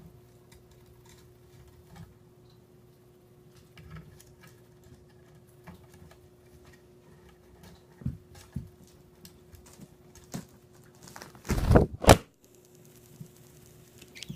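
Light, scattered taps and scratches of a corella's claws as it walks on a hard floor, over a faint steady hum. Near the end come two loud thumps in quick succession.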